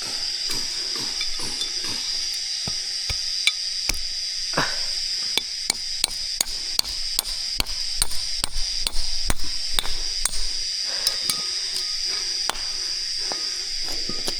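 A run of sharp knocks, about two a second, starting a few seconds in and stopping near the end, over a steady high-pitched insect drone.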